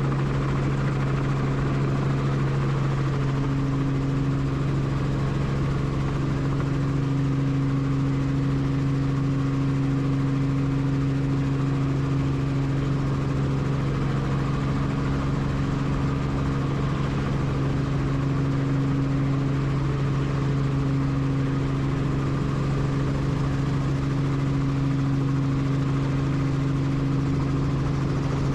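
Helicopter running, a steady drone of turbine and rotors with a constant low hum that does not change.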